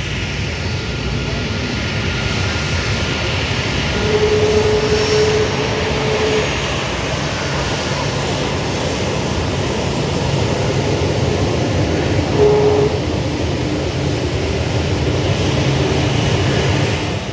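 Aircraft engines running steadily, a continuous low rumble with a steady higher tone coming in for a couple of seconds about four seconds in and again briefly later.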